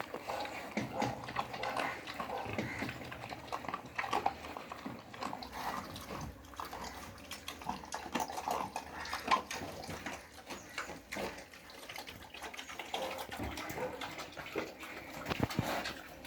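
Large Yorkshire piglets, about a week old, squealing and grunting in many short, irregular calls around their sow.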